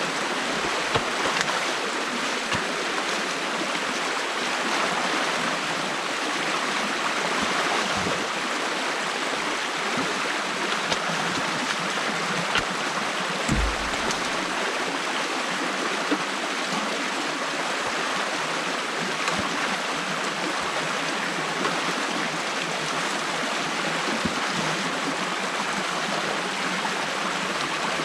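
Stream water flowing steadily through an opening in a beaver dam, with a few light knocks and one low thump about halfway through.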